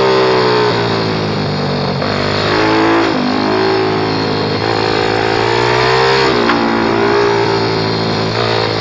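Pit bike engine being ridden hard, its pitch rising and falling with the throttle. The pitch drops sharply about three seconds in and again just past six seconds, each time followed by a fresh climb.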